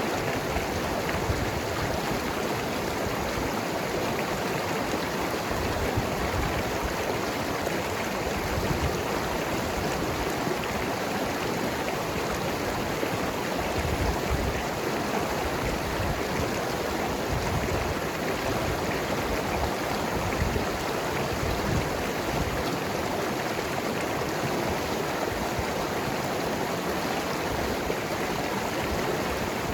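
Mountain river flowing and gurgling over rocks: a steady rush of water with small splashes running through it.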